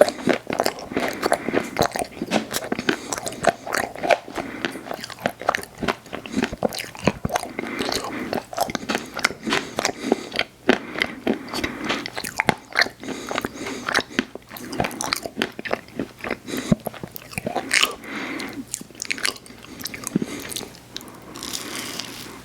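Close-miked eating of ice cream and cookie treats: big crunching bites and chewing, with dense, irregular crackles throughout.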